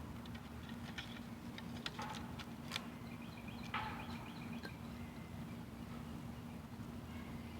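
Scattered light clicks and knocks of wooden sticks being handled and stacked into a stick bird trap, with a few faint bird calls and a steady low hum behind.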